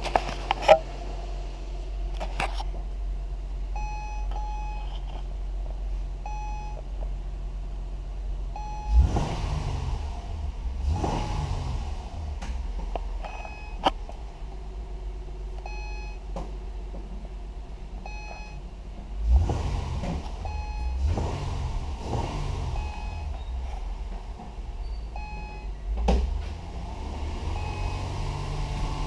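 Acura TL's 3.5-litre V6 idling, with the throttle blipped in quick revs several times: twice about a third of the way in, three times past the middle and once near the end. A short electronic beep repeats about once a second throughout.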